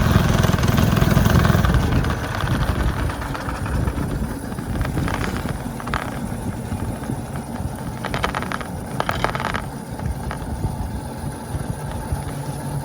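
Go-kart's single-cylinder four-stroke engine running through a loud aftermarket exhaust, loud at first and then fading from about two seconds in as the kart moves away. The chain sprocket no longer grinds on the frame.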